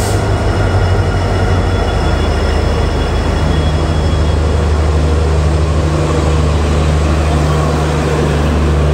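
Diesel locomotive passing close alongside the platform as a passenger train pulls in, its engine giving a steady deep hum over the rumble of wheels. A second, higher hum joins about three seconds in as the coaches roll past.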